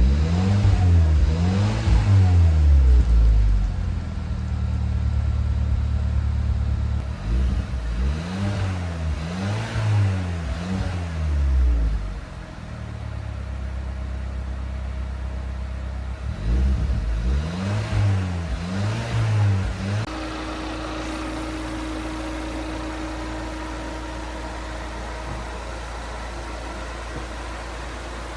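Car engine, the Kia Soul's 1.6-litre turbo four, revved in quick repeated blips three times with steady running between, then settling to a steady idle about twenty seconds in.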